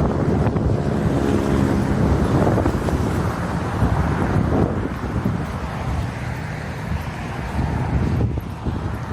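Road traffic passing close by on a busy main road, one vehicle's engine note standing out in the first couple of seconds, with wind buffeting the microphone. The traffic noise eases off after about five seconds.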